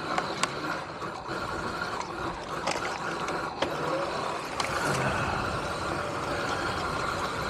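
Riding noise from an electric dirt bike on a dirt trail: steady wind and tyre rush with a faint high motor whine, and a few short knocks from bumps in the track.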